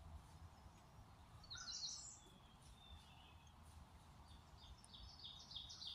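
Small bird singing faintly: a short burst of rapid high notes about a second and a half in, then a fast, evenly repeated string of high chirps starting near the end, over a faint low rumble.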